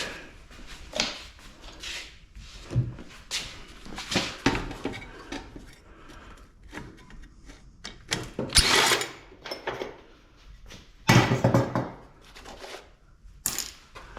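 Irregular metal clanks and knocks of hand tools and sheet-metal parts being handled while a scrap air-conditioning unit is taken apart. Two louder, longer rattling clatters come a little past the middle and again about three quarters in.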